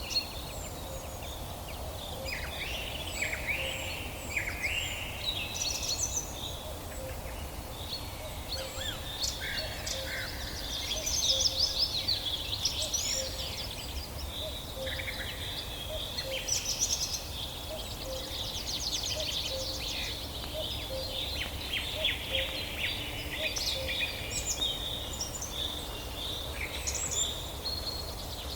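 Several wild birds chirping and singing at once: quick trills, short sweeping calls and repeated chirps overlapping throughout, over a low steady background rumble.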